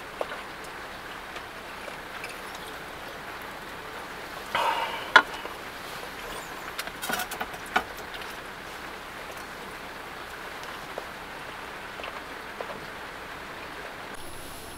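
Heavy rain drumming steadily on the roof and body of a small van, heard from inside the cabin. A sharp knock about five seconds in is the loudest moment, with a few lighter clicks around seven to eight seconds.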